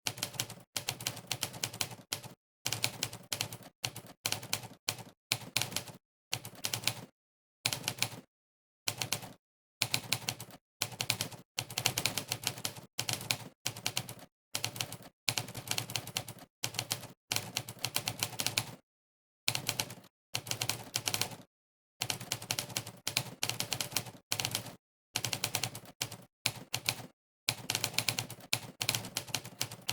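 Simulated typewriter keystroke sounds from a typing-test site's 'typewriter' sound setting, one clack per key press at fast typing speed. They come in runs of quick clacks broken by short, completely silent pauses.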